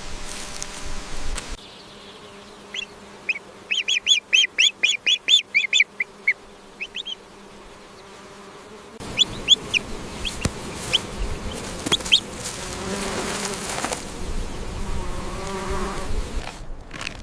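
A quick run of about a dozen short high chirps over a faint steady hum, followed by more scattered chirps and rustling noise.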